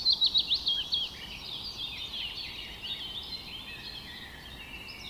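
Small birds singing: a quick run of high falling chirps in the first second, then fainter overlapping twittering from several birds.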